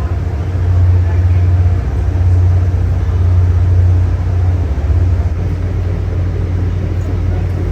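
Steady low rumble of an MBTA Commuter Rail diesel train, loud and even throughout.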